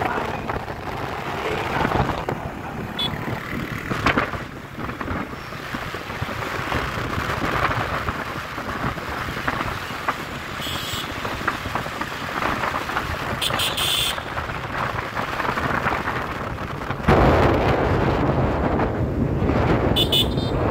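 Wind rumbling and buffeting over the microphone on a moving motorcycle, mixed with road noise. The buffeting gets heavier a few seconds before the end.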